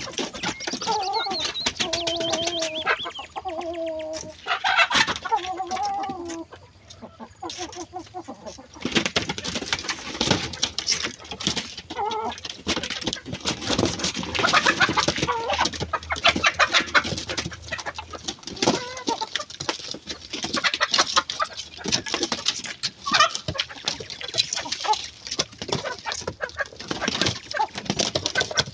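Chickens clucking, a dense run of short clucks with a few longer pitched calls in the first few seconds.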